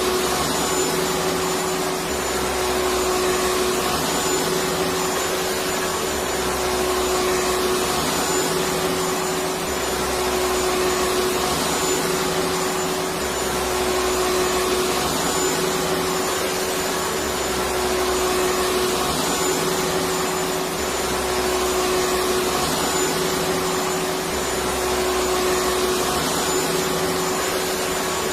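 Vacuum cleaner running steadily with a constant whine, its sound swelling and dipping in a regular cycle about every two seconds.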